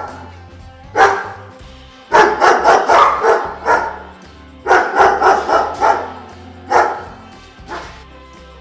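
A dog barking in quick runs of several barks with short pauses between, ending with a single bark and a fainter one. Background music with a low steady tone plays underneath.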